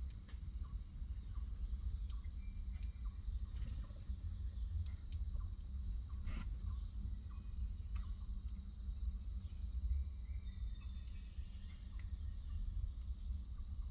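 A steady, high-pitched insect trill, like crickets, runs under a few short, high bird chirps that come every few seconds, over a constant low rumble.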